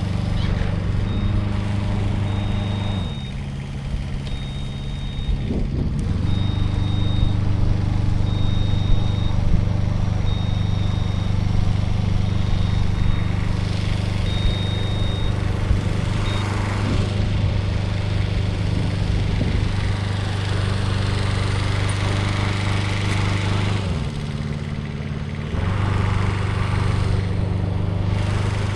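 An engine running steadily, its pitch dropping and coming back up twice, about three seconds in and again near the end. A short high beep repeats about every second and a half through the first half.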